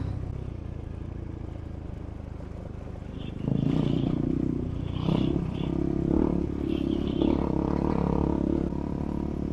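Adventure motorcycle engine running under way on a dirt trail. About three and a half seconds in, the throttle opens and the engine gets louder and holds there, with some clatter.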